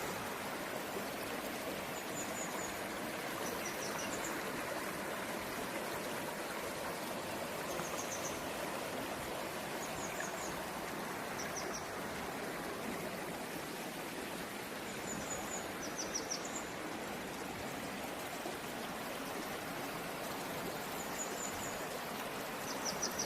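Mountain stream running steadily over rocks, with short high chirps every few seconds.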